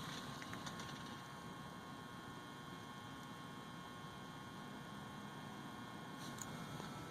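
Faint steady hum with background hiss and a few faint ticks.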